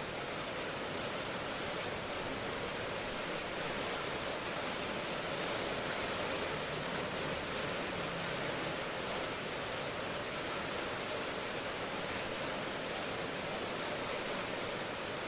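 Steady rain ambience: an even hiss of falling rain with no single drops or breaks.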